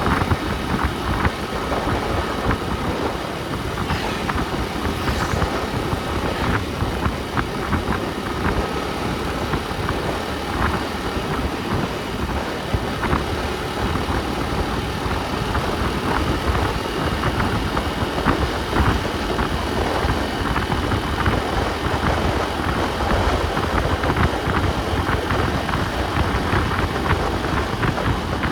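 A motor vehicle's engine and road noise, heard steadily on board while driving, with many small clicks and rattles.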